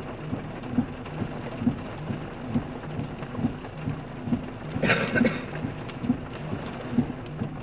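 Heavy rain drumming steadily on a car, heard from inside the cabin, with a soft low pulse about once a second. A short louder noise comes about five seconds in.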